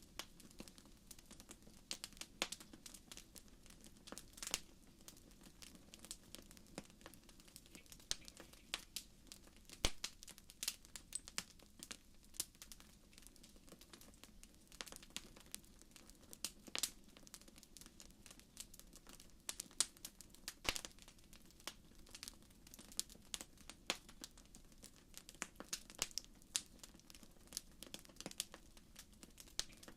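Wood fire crackling in a fireplace: irregular sharp pops and snaps over a faint low hiss of burning.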